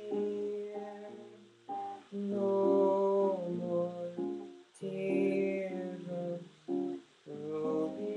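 Guitar playing a slow progression of jazzy seventh chords (Abmaj7, Fmin7, Bbmin7, Eb7), each chord left ringing for a second or two with short breaks between.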